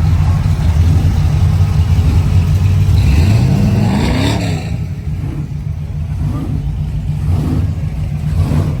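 Car engine running with a low, steady rumble, and one rev that rises and falls about three and a half seconds in.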